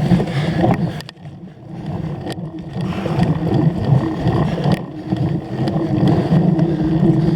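Wind buffeting the microphone of a camera on a moving cyclocross bike, a rough, loud rumble, with a few sharp knocks and rattles from the bike over rough ground; it eases briefly about a second in.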